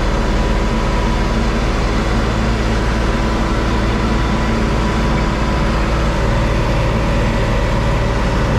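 John Deere 4250 tractor's six-cylinder diesel engine running steadily under load while it pulls a Kuhn VB 3155 round baler, whose machinery runs with it as it picks up and rolls hay. A loud, even drone throughout.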